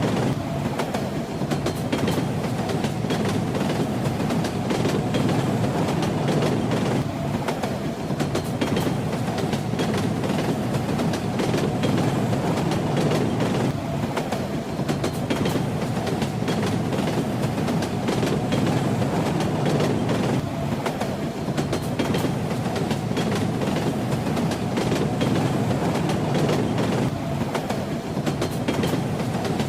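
Moving train: a steady low rumble with the wheels clattering over the rail joints.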